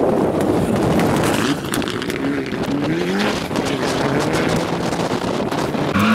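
A rally car's engine at speed, revs climbing through the gears. The engine grows suddenly louder right at the end as the car arrives.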